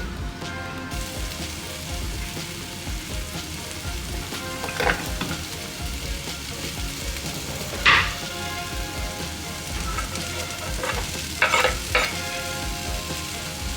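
Food sizzling and frying in a hot pan as it is stirred, with a few sharp knocks of the utensil against the pan.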